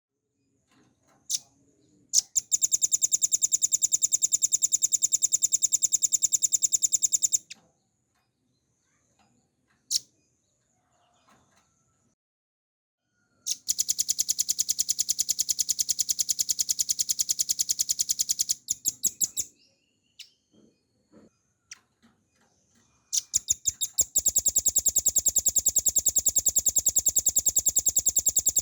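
Velvet-fronted nuthatch singing three long, very fast trills of about five or six seconds each, separated by pauses that hold a few single short call notes.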